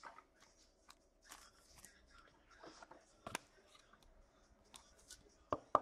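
Faint rustling and small clicks of trading cards being handled and slid through the hands, with a sharper click about three seconds in and a louder short tap near the end.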